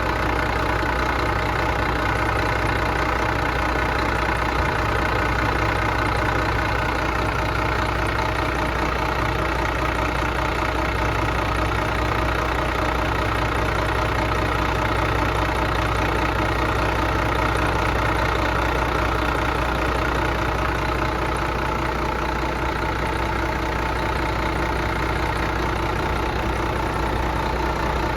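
Detroit Diesel engine being run to destruction, running steadily at a constant speed.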